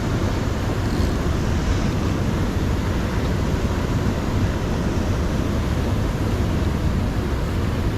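Steady low rumble of wind buffeting the microphone, over the constant rushing of the river's flowing water.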